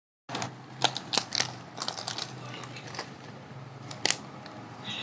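Plastic snack packets crinkling and crackling as they are handled, in irregular sharp crackles, over a faint low hum.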